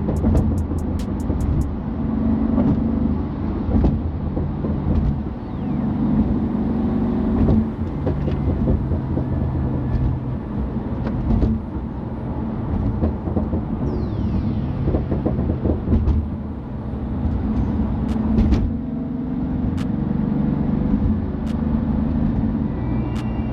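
BMW F82 M4's twin-turbo straight-six engine running on the move, its note moving up and down over the steady noise of the car in motion.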